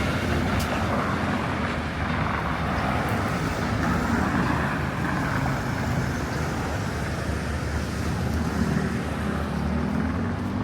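Street traffic: vehicle engines running with a steady background of road noise.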